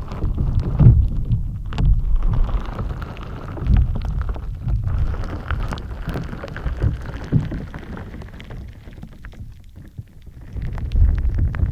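Gritty shaved-ice slime being squished and kneaded close to a binaural microphone: dense fine crackling pops over low squelching. It quietens for a couple of seconds, then picks up again just before the end.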